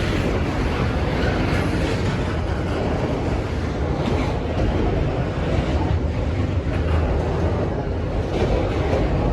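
Norfolk Southern intermodal freight train rolling past: a steady rumble of steel wheels on the rails.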